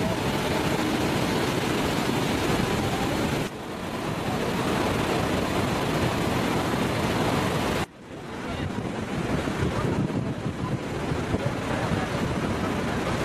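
Loud, steady rushing roar of a large waterfall, with wind on the microphone. The sound drops off abruptly twice, about three and a half and eight seconds in, and comes straight back.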